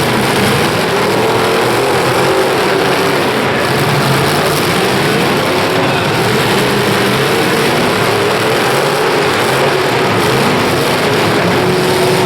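Demolition derby cars' engines running and revving together, loud and steady, with engine pitch wavering up and down as throttles open and close.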